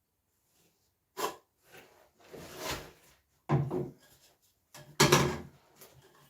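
Diesel heater kit parts being handled and set down: a sharp knock, a sliding rustle that swells and fades, then two heavier thuds.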